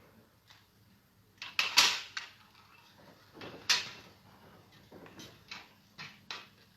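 Hand pruning shears snipping thuja branches: about eight short, sharp clicks at irregular intervals, the loudest near the middle.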